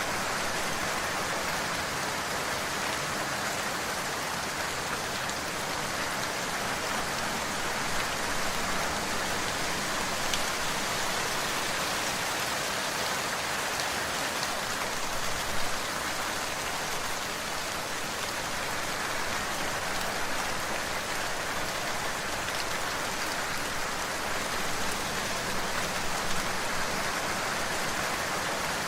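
Steady rain falling, a constant hiss with scattered faint drop ticks.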